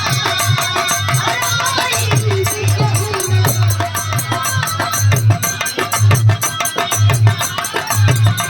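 Instrumental passage of Bhojpuri biraha folk music: a hand drum keeps a steady beat, with a melody instrument playing over it and light fast ticking on top.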